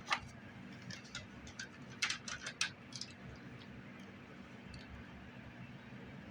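Scattered clicks and crackles of plastic blister packaging being handled as Hot Wheels die-cast toy cars are taken out of it, with a quick cluster of sharper clicks about two seconds in.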